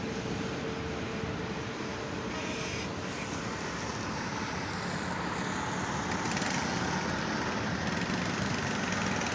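Steady road traffic noise with a vehicle engine running, growing a little louder in the second half.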